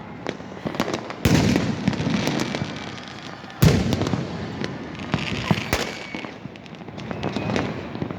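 Fireworks going off: sharp bangs about a second in and again near the middle, with continuous crackling and popping between them and faint whistling.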